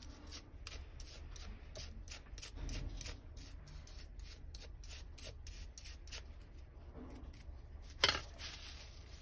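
Faint rubbing and scraping with many small clicks as the opened Master electric shaver's plastic parts are handled, with one sharper click about eight seconds in.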